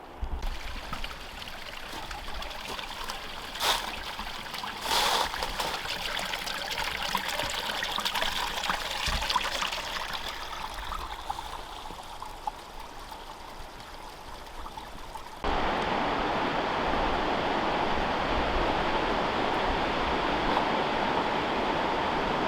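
Mountain stream water running over rocks, with a couple of short knocks early on. About two-thirds of the way through it cuts to a louder, steady rush of water close to cascading falls.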